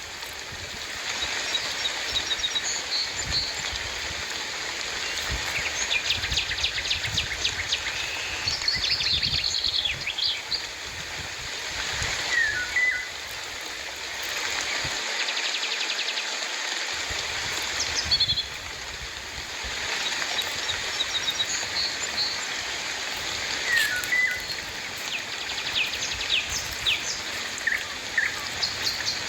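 Steady rain falling, with birds chirping and calling over it in short, repeated calls.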